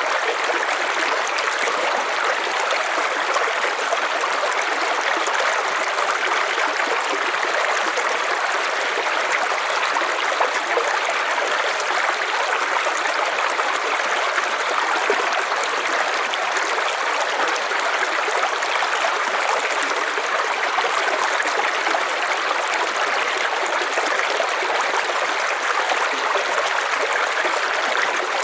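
River water flowing and rushing steadily, an even, unbroken noise of running water.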